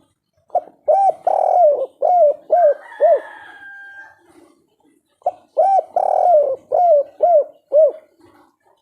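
Spotted dove (tekukur/derkuku) singing the 'kuk 3' coo song. It gives two phrases of about six short arched coos, each phrase with one drawn-out note, about two seconds apart. A faint thin higher whistle sounds between the phrases.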